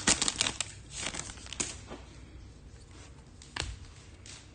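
A 2022 Topps Chrome pack's foil wrapper crinkling as it is torn open, dying away after about a second into soft rustles and a few light taps of cards being handled.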